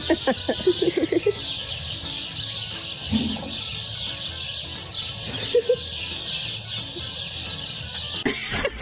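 Steady chorus of birds chirping, with a few short, low, clucking calls in the first second or so and again about halfway through.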